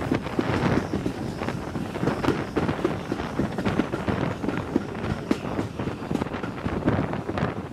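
Steam-hauled passenger train running at speed, heard from an open carriage window: the coach wheels clatter and knock over the rails, with wind buffeting the microphone.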